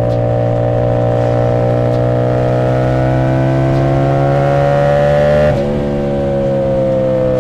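CFMoto 450SS parallel-twin motorcycle engine through an aftermarket exhaust, pulling under throttle with its pitch climbing steadily. About five and a half seconds in the note breaks briefly, then its pitch slowly sinks.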